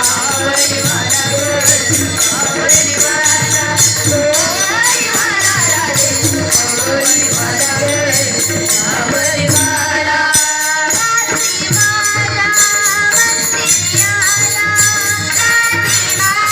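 A Marathi gaulan devotional song: a woman's voice singing in long, gliding phrases over fast, even jingling percussion, with a short break in the voice about ten seconds in and held instrumental notes after it.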